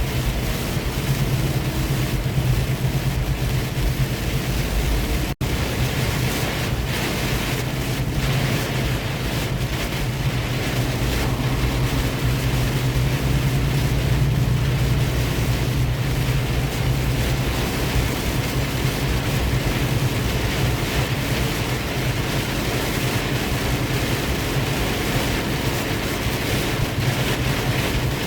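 Semi truck running down the road, heard from inside the cab: a steady low engine drone with road and wind noise, broken by a split-second silence about five seconds in.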